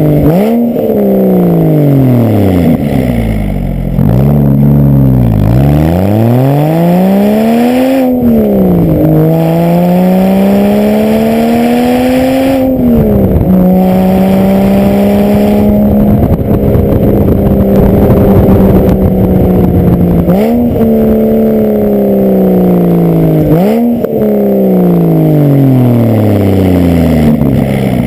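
Porsche Boxster S 3.2-litre flat-six, heard at the tailpipe through Fabspeed secondary-cat bypass pipes and a Stebro race muffler. The engine revs up under throttle several times, and each gear change drops the pitch. It holds a steady pitch through the middle, then gives two quick throttle blips on heel-toe downshifts, with the revs falling between them.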